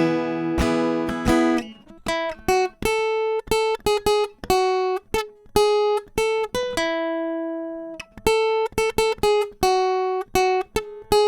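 Acoustic guitar instrumental break: strummed chords at first, then from about two seconds in a picked single-note melody, each note ringing out and fading.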